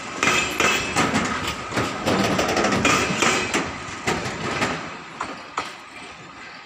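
Wheels of passenger coaches clattering over rail joints as a departing train rolls past: a run of irregular sharp clicks and knocks that thins out and fades over the last couple of seconds as the tail coach pulls away.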